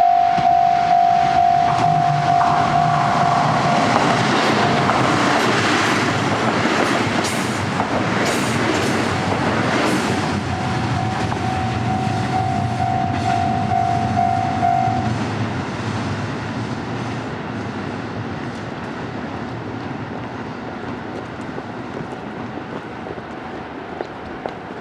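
Level-crossing alarm bell ringing in a steady repeating pattern while a KiHa 85 series diesel express passes over the crossing. The diesel engines hum, and the wheels knock over the rail joints, loudest about seven to ten seconds in. The train then fades away as it recedes.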